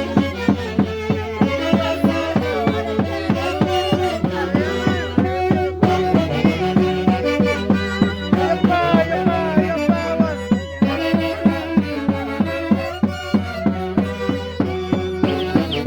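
Peruvian Santiago dance music from the Mantaro Valley, played instrumentally: a sliding string melody over a steady, even drum beat.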